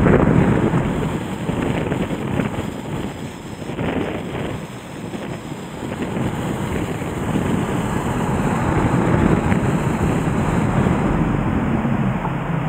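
A swollen river in flood rushing, with wind gusting against the microphone. The sound eases for a moment about four seconds in, then builds again.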